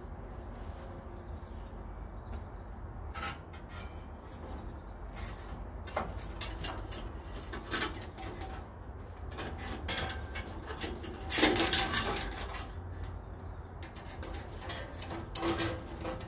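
Scattered clicks, knocks and rattles of a bandsaw blade being handled and fitted onto a 14-inch bandsaw's wheels, with a louder cluster of rattling a little past the middle.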